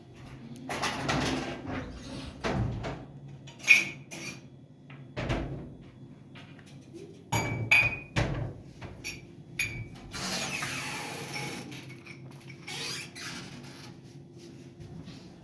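Irregular knocks and clinks of hard household objects being handled, several with a short metallic or glassy ring, and a stretch of rustling hiss about ten seconds in.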